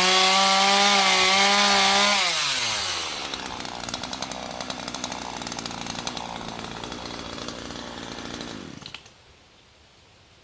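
Gas chainsaw revved to full speed and held there for about two seconds, then dropping back to a rough idle. It is shut off abruptly near the end.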